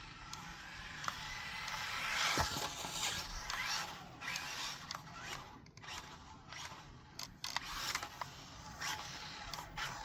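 Small brushed-motor RC short course truck driving in stop-start bursts, its motor and gears whining up as it accelerates and its small tyres scuffing on carpet. Short scrapes and clicks as it turns and wheelies.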